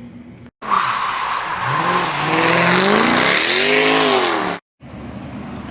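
A car engine accelerating, its pitch rising and then falling away over a steady rush of road noise. The sound starts and stops abruptly.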